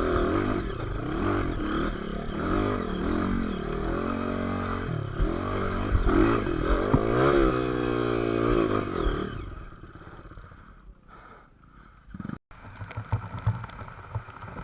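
Motorcycle engine revving up and down repeatedly, its pitch rising and falling with the throttle, then fading away about nine seconds in. A quieter rumble follows after a brief dropout.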